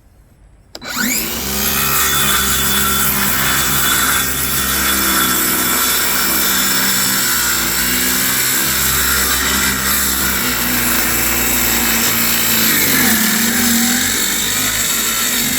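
Electric power saw starting up about a second in and cutting through a wooden board, running loud and steady through the cut.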